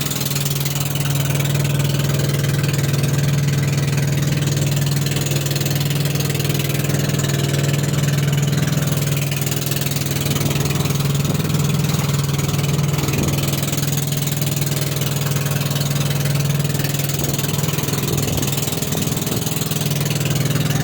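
A boat engine running steadily at a constant speed, a continuous low hum with a wash of noise over it.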